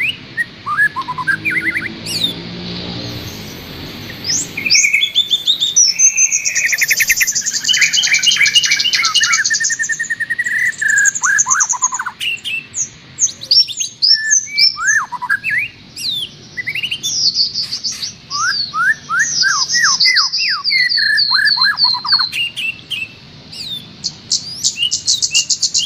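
Songbird song played as a masteran tutor track: a dense run of fast chirps, rattling trills and sweeping whistled notes, with several songs overlapping.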